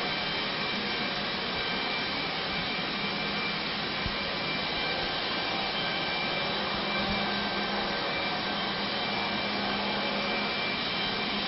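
Steady mechanical whirring hum with a constant pitch, like a running fan or blower, unchanging throughout.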